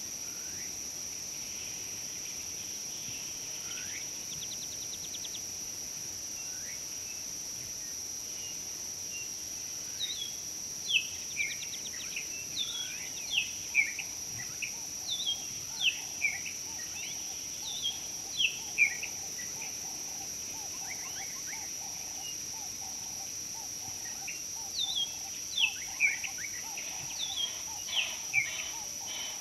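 A steady, high-pitched insect drone of crickets or similar insects. Over it, a bird gives a run of short, quick, downward-sliding calls starting about a third of the way in, pauses, and calls again near the end.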